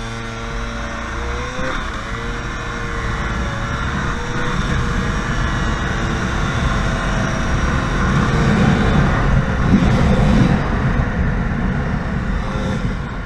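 Motorcycles accelerating hard in a drag race, the engine pitch climbing about a second and a half in, under a rush of wind noise on the microphone that grows loudest about two-thirds of the way through.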